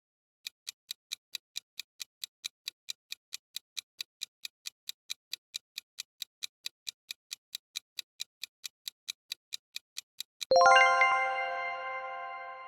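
Quiz countdown-timer sound effect: clock-like ticks, about four a second, for nearly ten seconds. Then a bell-like chime rings out and slowly fades, signalling that the answer time is up.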